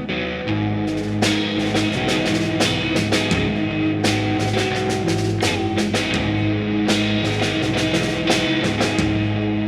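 Live rock band playing an instrumental passage: sustained guitar and bass notes with the drum kit and cymbals hitting from about a second in. Taken straight from the mixing desk.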